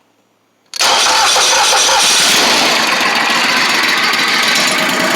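CH6720H wood chipper's gasoline engine starting on choke: quiet at first, then it catches suddenly a little under a second in and keeps running loud and steady.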